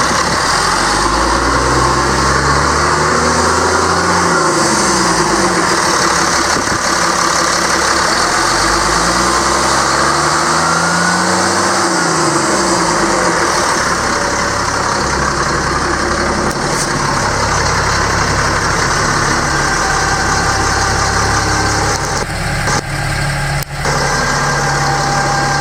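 Caterpillar C7 inline-six turbo diesel of a Ford F-750 truck, revved up and back down twice, then settling into a steady idle.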